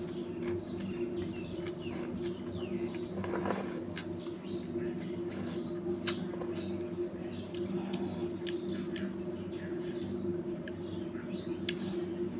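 Faint high bird chirps, repeated many times, over a steady low hum, with a few sharp clicks.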